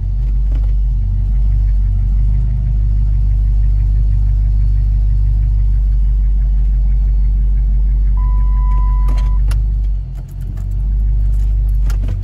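2008 Dodge Charger R/T's V8 idling steadily while its NAG1 five-speed automatic is shifted through Park, Neutral and Reverse to circulate freshly added fluid. A single steady beep sounds about eight seconds in, and a quick run of clicks comes near the end.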